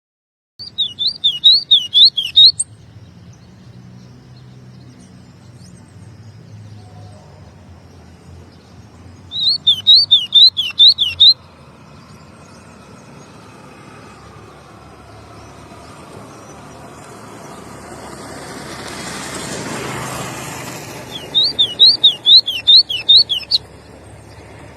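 White-throated seedeater (golinha) singing three short bursts of fast repeated high notes, each lasting about two seconds and coming about ten seconds apart. Between the bursts a low background rush swells and fades, loudest shortly before the third burst.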